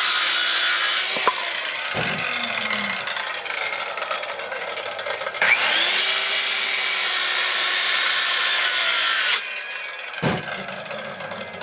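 Electric jigsaw cutting through lumber, its blade rasping through the wood over a steady motor tone. The cut eases off and picks up again about halfway, stops abruptly near the end, and is followed by a knock.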